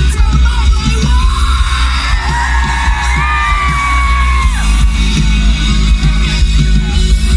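Live pop-rock band playing loudly, with heavy bass, steady drum hits and a voice holding long sliding notes in the middle, along with yells and whoops.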